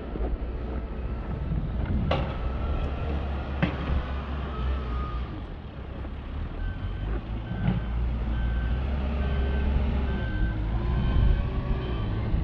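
A heavy truck's engine running with a steady low rumble. Just past halfway its reversing alarm starts beeping at an even pace, about one beep a second, as it backs up. A few sharp knocks come in the first half.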